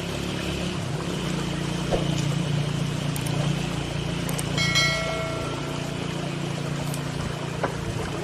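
A steady low mechanical hum over a rushing, water-like noise. About halfway through, a clear whistle-like tone sounds for about a second.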